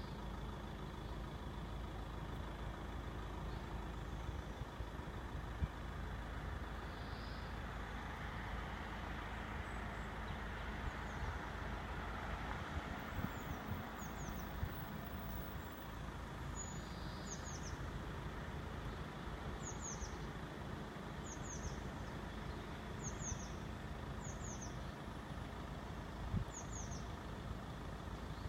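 Steady road-traffic hum, with one vehicle passing that swells and fades around the middle. From about halfway on, a bird repeats short high descending chirps every second or so.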